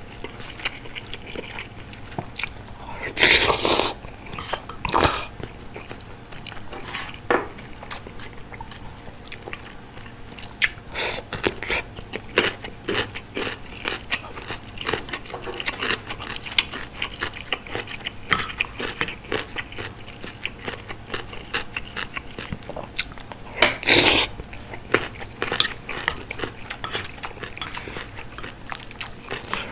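Close-miked chewing and biting of bulgogi hot pot, with wet mouth clicks and smacks all through and a few louder bursts about three, five and twenty-four seconds in.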